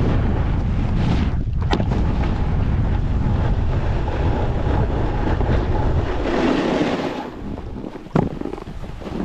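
Wind buffeting the microphone with a heavy, uneven low rumble that eases off about six seconds in. There is a short click early on and a sharp knock near the end.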